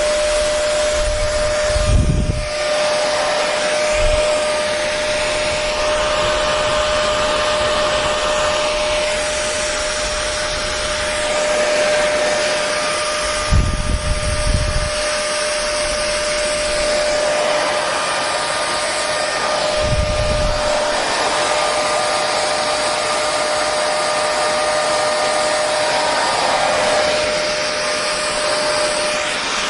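Hair dryer running steadily: a constant rush of air over a steady motor whine. A few brief low thuds come in about 2, 14 and 20 seconds in.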